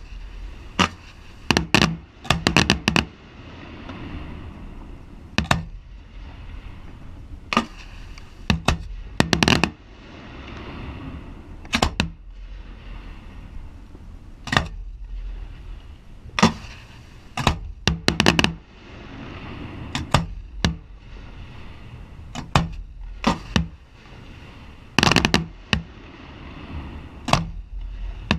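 Aerial fireworks shells firing and bursting: a string of sharp booms at irregular intervals, many in quick doubles and triples, with a low rumble between the reports.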